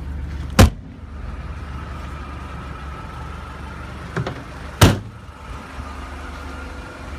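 Two loud clunks about four seconds apart, with a smaller knock just before the second, as the Land Cruiser Prado's third-row seats are tilted up and latched. A steady low hum runs underneath.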